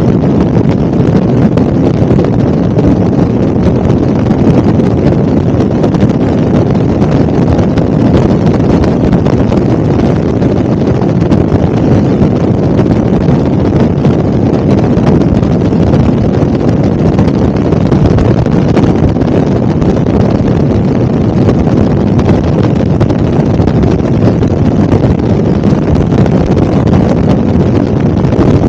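Helicopter in flight: a loud, steady drone of rotor and engine that does not change.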